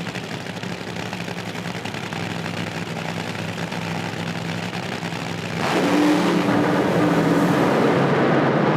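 Drag race cars at the starting line: engines running steadily while staged, then about five and a half seconds in both cars launch at full throttle and the sound jumps to a loud, sustained wide-open blast.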